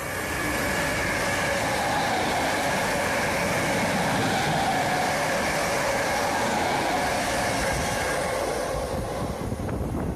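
Electric multiple-unit passenger train passing along the platform at speed: a loud, steady rumble and rush of wheels on rail with a constant whine over it. The high part of the noise thins out near the end as the train clears.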